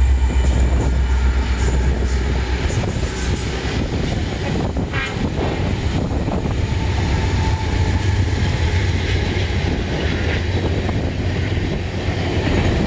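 Canadian National diesel-electric freight locomotives passing close by, their engines giving a deep, steady rumble that eases for a few seconds and then swells again as the trailing units go by. Steel wheels clatter over the rail joints as the tank cars follow.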